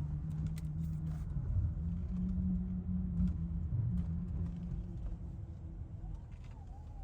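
Chevrolet Camaro SS's 6.2-litre V8 running at low speed, a steady low rumble that rises a little in pitch about two seconds in and eases off toward the end.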